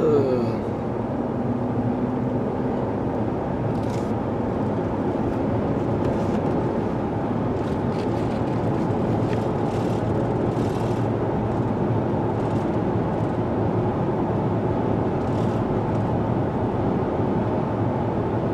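Inside the cabin of a 2016 Ford Explorer driving on the road: the rebuilt 3.7-litre V6 and the tyres make a steady, even drone, running pretty steady and pretty smooth.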